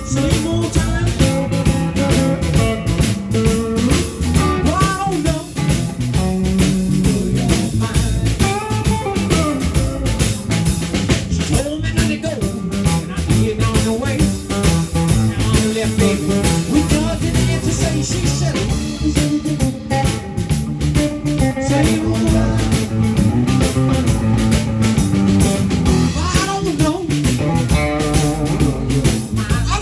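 Live band playing blues music with guitar and drum kit, steady and loud.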